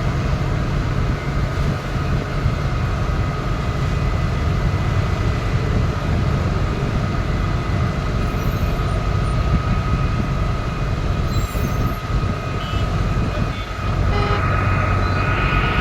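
Heavy vehicle engine running steadily with a low rumble, a thin steady whine above it.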